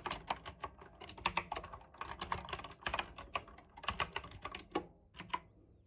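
Typing on a mechanical keyboard: quick runs of key clicks with short pauses between them. The clicks thin out to a few single keystrokes near the end.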